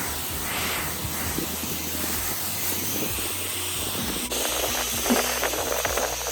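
Pressure washer spray hissing steadily, with background music under it.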